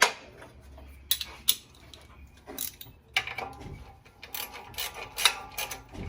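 Ratchet wrench clicking and metal tools clanking in irregular bursts while bolts on an engine accessory bracket are loosened.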